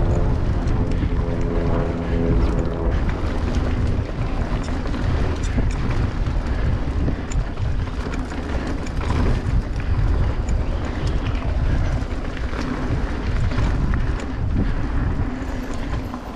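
Mountain bike riding fast down a dirt trail: wind buffeting the microphone over a steady rumble of tyres on dirt, with many small clicks and rattles from the bike. A steady humming tone fades out about three seconds in.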